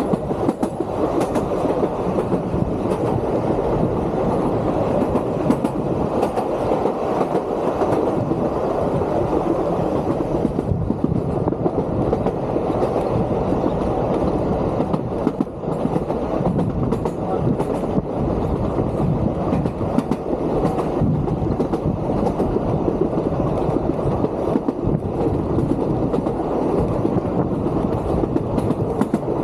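Vintage Sóller railway electric train under way: a steady rolling rumble with frequent sharp clicks and knocks from the wheels and carriage.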